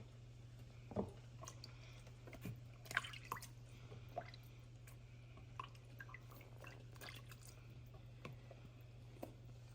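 Scattered soft wet clicks and taps from handling blended pepper sauce, over a steady low hum; the loudest clicks come about a second in and about three seconds in.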